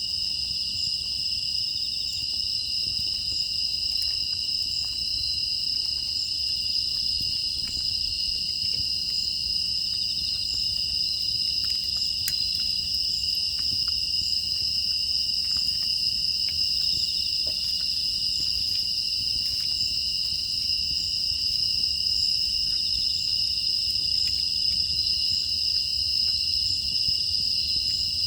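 Crickets and other grass insects chirring in a steady, unbroken chorus of high tones, with faint scattered crackles from a wood fire.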